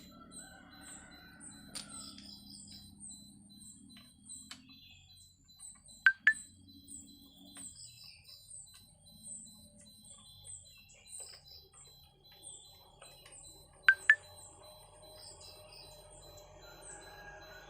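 Small birds chirping repeatedly in the background, with two sharp double clicks, one about six seconds in and one about fourteen seconds in.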